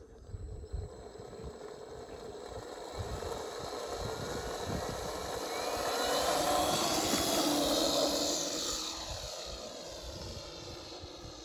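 Radio-controlled P-51 Mustang model plane making a pass: its motor and propeller grow louder to a peak about six to eight seconds in, then fade away, the pitch dropping as it goes by.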